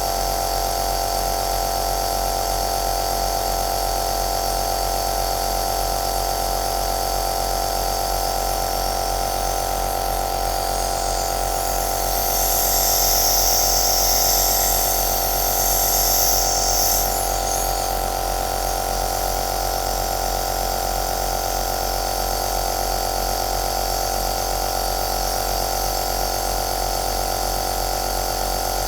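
Compressor nebulizer running steadily, a constant motor hum with a hiss of air and mist over it. About twelve seconds in, the hiss grows louder for about five seconds, then settles back.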